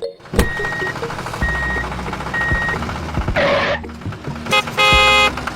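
Truck reversing alarm beeping three times over a low engine rumble, followed by a short hiss and then a loud blaring tone near the end.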